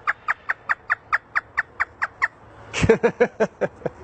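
A parrot imitating hysterical laughter: a fast string of short falling 'ha' notes, about five a second, then a brief pause and a second burst of laughing a little before the end.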